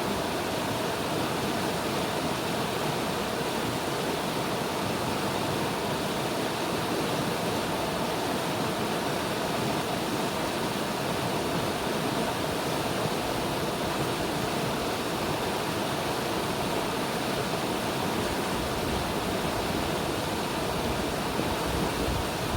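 River water rushing steadily, an even hiss-like wash with no breaks. Near the end, wind starts buffeting the microphone with a low rumble.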